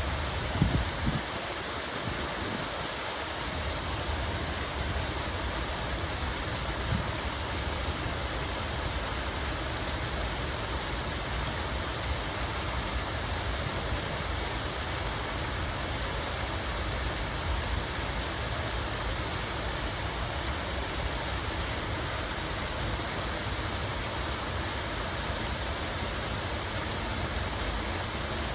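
Steady rush of running, falling water, with a couple of brief low thumps about a second in and again about seven seconds in.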